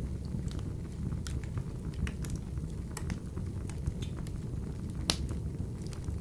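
Wood fire burning in a wood-burning stove: a steady low rumble of the flames with irregular sharp crackles and pops from the burning logs, the loudest pop about five seconds in.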